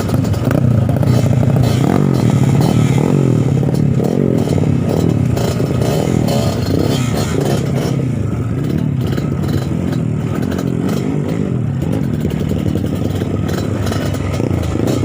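Trail motorcycle engine revving up and down continuously as it is ridden off-road, with rattling and scraping mixed in.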